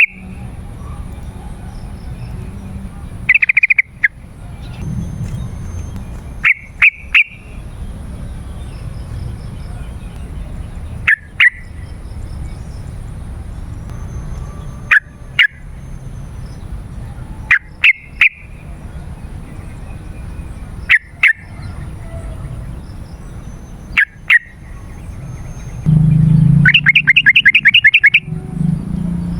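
Yellow-vented bulbul (trucukan) calling: short loud call phrases, single or in pairs, every few seconds, then a fast rattling run of repeated notes near the end. A steady low rumble runs underneath.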